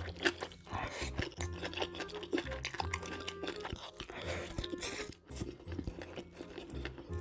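Close-miked chewing and crunching of food in a mukbang, many short crisp crunches, over background music with a steady low beat.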